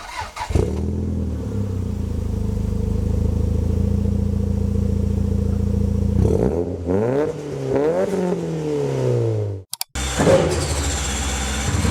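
Race car engines. One holds a steady high pitch for about six seconds, then revs up and down in several rising and falling sweeps. After an abrupt cut near the end, a different engine runs on.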